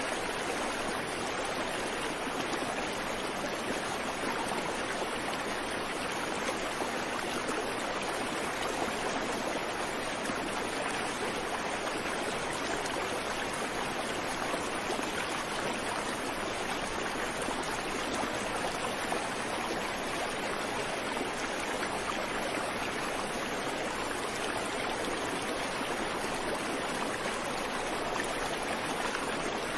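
Creek water flowing over rocks, a steady, even rush with no birdsong.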